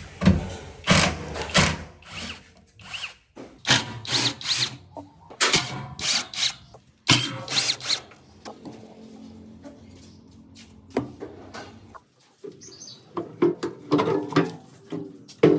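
A handheld power tool, drill-like, runs in a series of short stop-start bursts, each about half a second long. There is a quieter stretch of several seconds in the middle.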